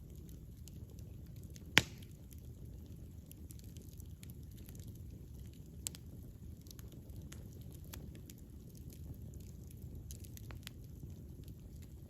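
Wood campfire burning: a steady low rumble of flames with scattered small crackles, and one sharp loud pop just under two seconds in.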